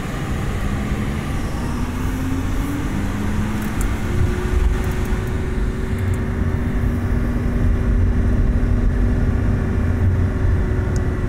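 Supercharged 5.2-litre V10 of a Lamborghini Huracán, heard from inside the cabin, pulling away gently. Its pitch rises over the first few seconds, then holds steady at a light cruise, with a supercharger whine over the engine note.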